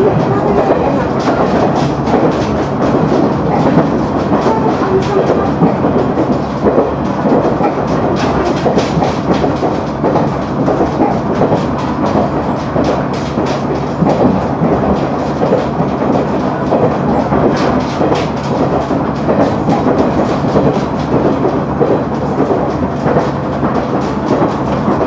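KiHa 100 diesel railcar running along the line, heard from inside the car: a steady rumble of wheels on rail with a low diesel engine hum and many light clicks.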